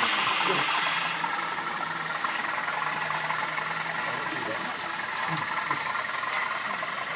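Background murmur of voices and general bustle, with a hiss that fades out about a second in and a steady low hum for a few seconds in the middle.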